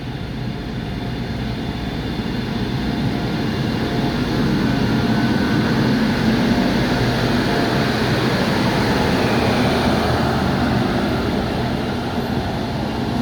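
Express passenger train running on the line: a steady rumble of wheels on rails that grows louder over the first few seconds and eases slightly near the end.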